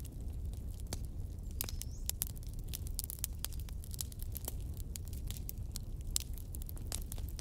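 Fire crackling: frequent irregular pops and snaps over a steady low rumble.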